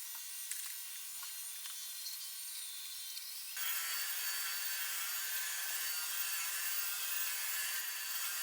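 Robot vacuums running: a steady whir of brushes and suction fan with a few light clicks in the first few seconds, getting suddenly louder about three and a half seconds in.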